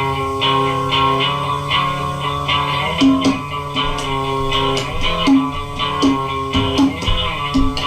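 Instrumental rock music: electric and bass guitar playing, with no vocals.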